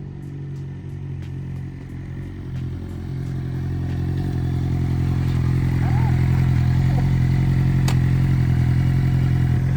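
A motor vehicle engine running steadily at an even pitch, growing louder a few seconds in and then holding, with a single sharp click near the end.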